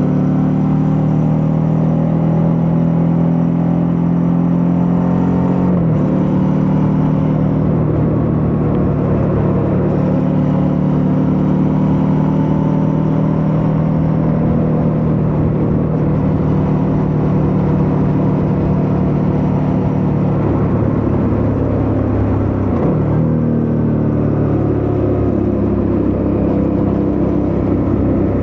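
Suzuki V-Strom 650's 645 cc V-twin engine running under way at a fairly steady throttle. The pitch drops about six seconds in, then dips and climbs again a little after twenty seconds.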